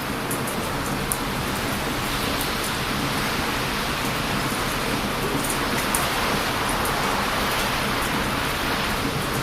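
Heavy surf breaking on a beach, a continuous rushing noise, with a few faint crackles and pops from a wood bonfire.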